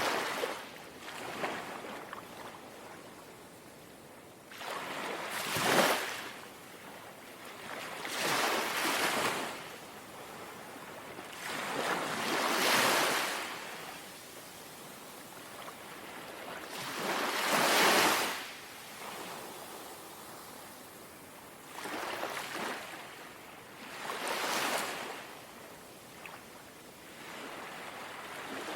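Small, gentle sea waves lapping and washing ashore, a swell of rushing water every three to five seconds that rises and falls away, over a soft steady wash.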